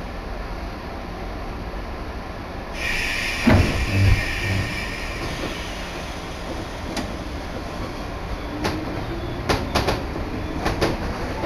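Inside a commuter train car as it pulls away from a station: a hiss with two thumps about three seconds in, then the running rumble with a faint rising motor whine and the wheels clicking over rail joints from about seven seconds in.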